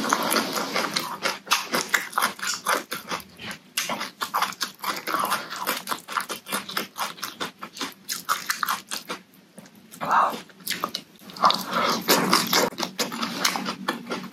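Close-miked chewing of shredded papaya salad, with rapid wet mouth clicks and lip smacks.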